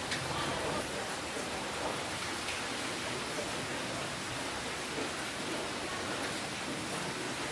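Steady rainfall: an even wash of rain noise with scattered individual drops standing out faintly.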